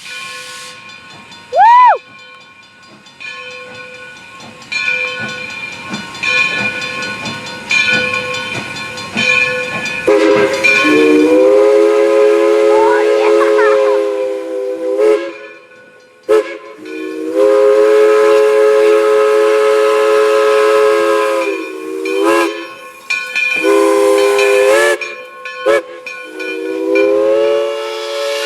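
Steam locomotive's chime whistle blowing long, low, multi-note blasts from about ten seconds in: two long ones, a short one, then more, over steady steam hiss. A person whoops once, loudly, near the start.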